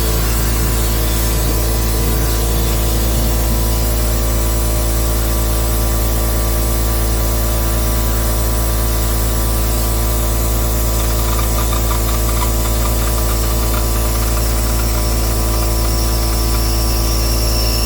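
Loud steady mechanical hum with hiss, unchanging throughout; a thin high squeal comes in near the end.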